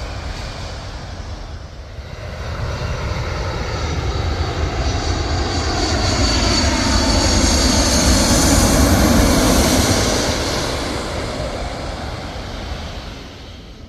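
Airliner passing low overhead on its landing approach: the engine noise swells to a peak a little past the middle and then fades, its pitch gliding downward as it goes by.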